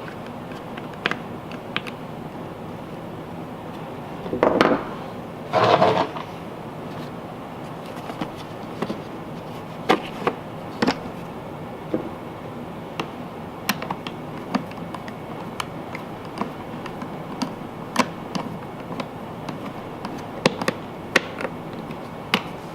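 Small parts and hand tools being handled while a generator is put back together: scattered clicks and taps, with two longer, louder rattles about four and a half and six seconds in.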